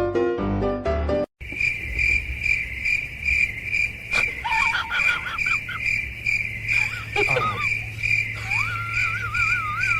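High-pitched insect-like chirping, pulsing evenly about twice a second, with short warbling whistle-like glides a few times over it. A moment of piano music is cut off about a second in.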